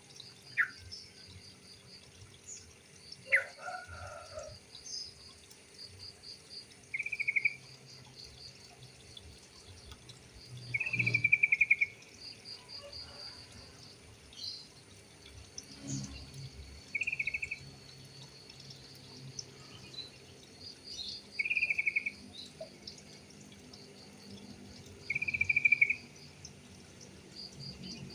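Trucuk (yellow-vented bulbul) calling: short bubbly trilled phrases, about half a second to a second each, repeated every three to five seconds, with two sharp single notes in the first few seconds. A faint, evenly pulsing insect chirr runs high behind it.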